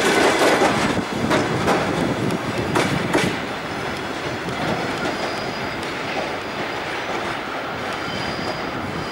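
Passenger coaches of a departing train rolling past, wheels clacking over the track. After the last coach passes about three seconds in, the clacks give way to a softer rumble as the train pulls away, with a thin, high wheel squeal.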